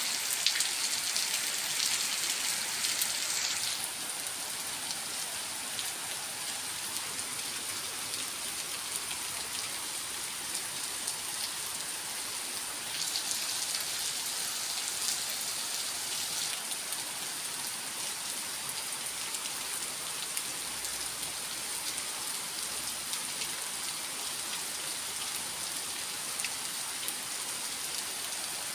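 Steady rain falling, with many individual drops ticking on a surface. It comes down harder for the first few seconds and again for a few seconds about halfway through.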